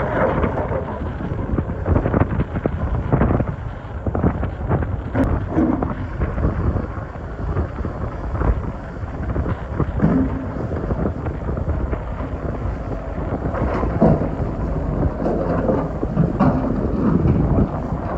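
Excavator working in rock: the engine rumbles steadily under load while the bucket digs, with repeated knocks, scraping and clattering of stones throughout.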